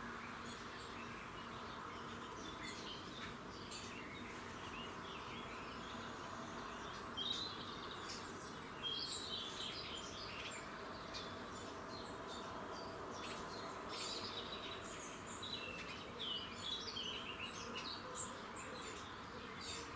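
Several songbirds singing in a dawn chorus, with overlapping short chirps and trills that grow busier from about seven seconds in, over a steady background hum.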